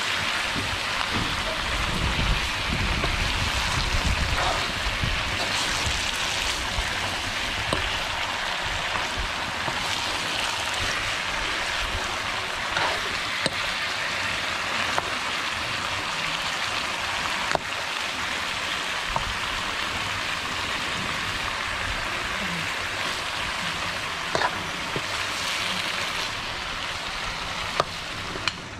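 Napa cabbage and meat sizzling in a hot pan as they are stir-fried, a steady hiss. A metal spatula gives occasional sharp clicks and scrapes against the pan.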